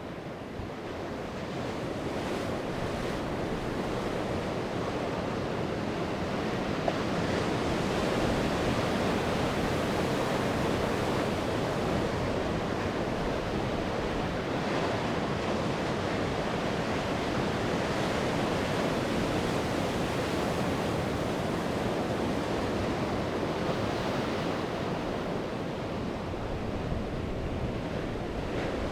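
Sea waves breaking and washing on the shore, a continuous surf wash that builds over the first few seconds and then holds steady, with some wind on the microphone.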